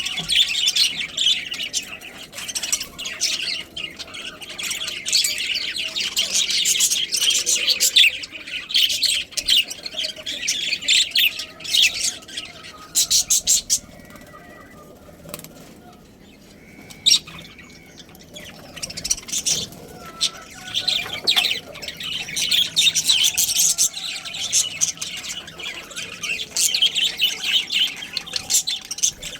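Budgerigars chattering with rapid, dense chirps and squawks, easing to a quieter lull a little past the middle before picking up again.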